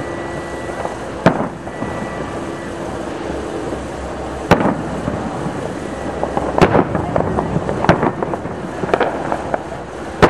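Aerial fireworks shells bursting: about five sharp bangs spaced one to three seconds apart, with crackling between them in the second half.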